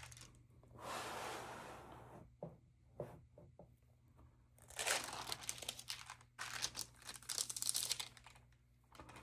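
Stamp album pages being handled and turned, paper and sleeves crinkling in several rustling bursts, with a few small clicks in between.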